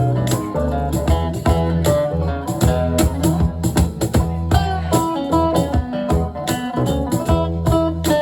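Live band playing an instrumental passage: guitar picking a busy line over a steady bass with a beat.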